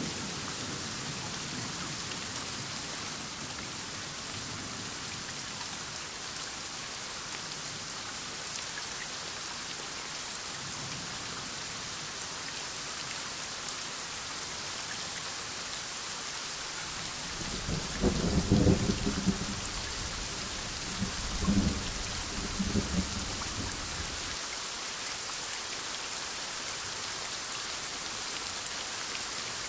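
Thunderstorm: heavy rain falling steadily, with a roll of thunder starting about 18 seconds in that rumbles for several seconds, with two loud peaks.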